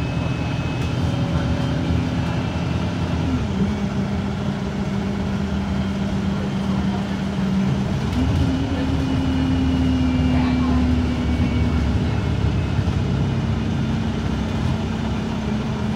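Cummins ISB4.5 diesel engine of an Alexander Dennis Enviro 200 MMC bus running under way. Its note drops about three seconds in, climbs back sharply about eight seconds in, and settles lower again after about eleven seconds.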